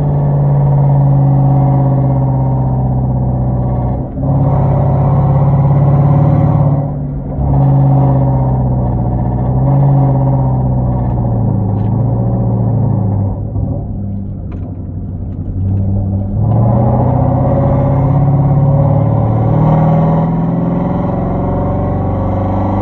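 Straight-piped 5.0-litre V8 exhaust of a Genesis sedan running Flowmaster Super 10 mufflers with no catalytic converters, heard while driving. It is a loud, deep drone whose pitch steps up and down as the car goes through the gears. It dips briefly about four and seven seconds in, and it is quieter for a few seconds past the midpoint, where the throttle eases off.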